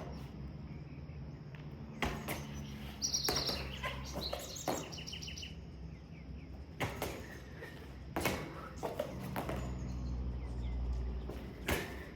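Birds chirping in a few short high calls about three to five seconds in, over a low steady hum, with scattered thumps from people jumping and landing during burpees.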